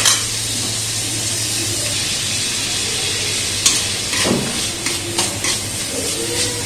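Chopped onions, green chillies and cashews sizzling in hot oil in a kadai as they are sautéed on medium flame. A metal spatula scrapes and knocks against the pan as they are stirred, a few sharp knocks in the second half.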